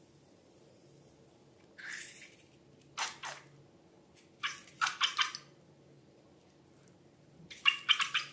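Slime being squished and pulled by hand in short, sticky, crackling bursts: one about two seconds in, several between three and five and a half seconds, and the loudest near the end.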